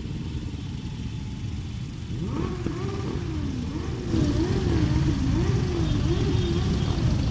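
Motorcycles in a passing parade, their engines making a steady low rumble. About two seconds in, a wailing tone begins that rises and falls over and over, and the sound gets louder about halfway through.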